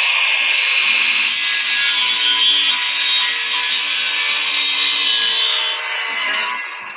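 Power saw cutting a wooden board along its edge to clean it up: a steady, loud, high whine over a harsh hiss. The cut eases off just before the end.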